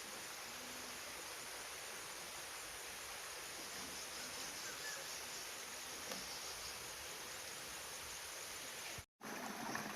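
Steady rush of running water, like a stream, broken by a brief gap about nine seconds in.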